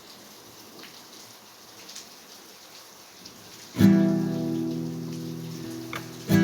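Guitar music: a faint hiss for the first few seconds, then a strummed chord about four seconds in that rings out and fades, and a second strum near the end.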